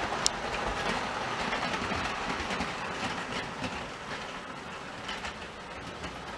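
Model train running on the layout's track, its wheels rolling and clicking over the rail joints, with one sharp click just after the start. It slowly gets quieter as the train moves away.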